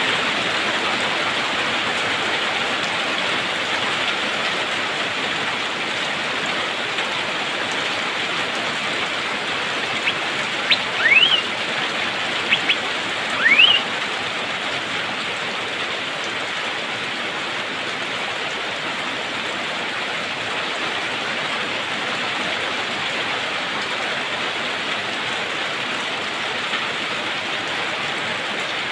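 Steady rain hiss, with a few short, rising whistled calls of an Asian fairy-bluebird (cucak biru) about a third of the way in.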